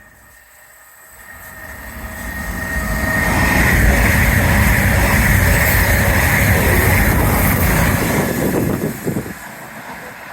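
Passenger train passing through the station at speed: the sound builds over about three seconds, stays loud for about four seconds with wheel and rail noise, then falls away near the end.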